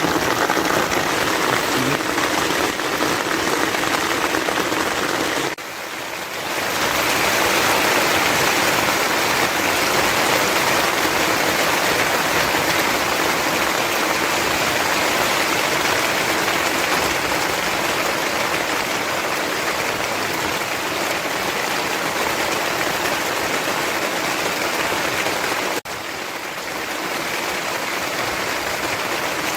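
Heavy rain falling steadily in a dense, even hiss. The sound dips briefly about five seconds in, then returns fuller, and drops suddenly to a slightly softer level near the end.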